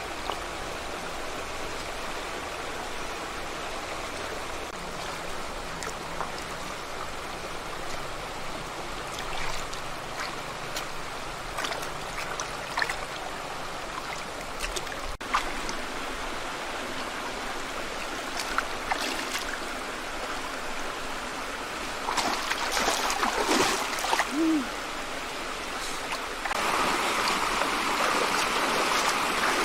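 Stream water running steadily, with scattered small splashes and knocks; the water gets louder near the end.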